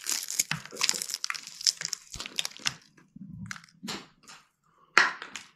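Crisp coating of a broasted chicken wing crunching as it is bitten and chewed, in many irregular crackles that thin out after about three seconds.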